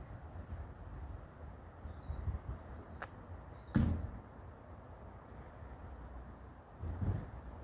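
Outdoor wind rumble on the microphone with a few short bird chirps about three seconds in. There are two sharp knocks, the second louder, and a duller bump near the end, which are handling noise.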